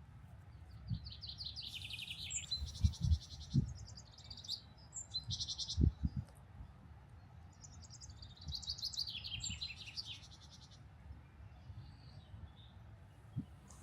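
Wild birds singing in repeated high trilling phrases, with a few dull low thumps in between, the loudest about six seconds in.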